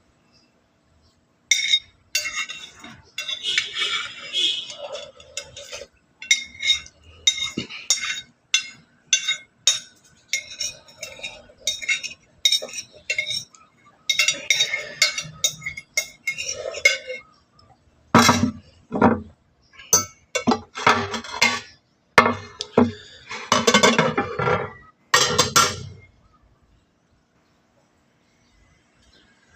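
Cutlery clinking against dishes and bowls during a meal, in many short bursts, with a run of louder, fuller clatters in the second half; it stops a few seconds before the end.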